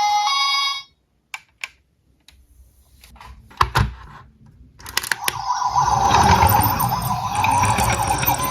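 Music cuts off, a few light clicks and knocks follow, then about five seconds in a siren starts wailing, rising and falling, over a low rolling rumble and clatter of small toy cars.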